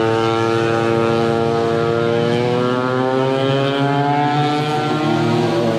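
Racing go-kart engines running on the track. One engine rises steadily in pitch for several seconds as the kart accelerates, then drops near the end as it slows, over the steady note of another engine.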